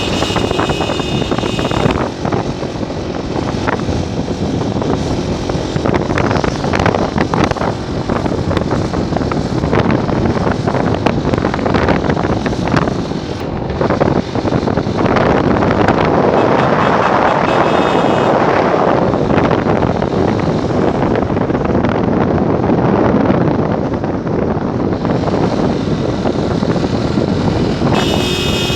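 Wind buffeting the microphone over motorcycle engine and road noise while riding. A horn sounds briefly about 18 seconds in and again near the end.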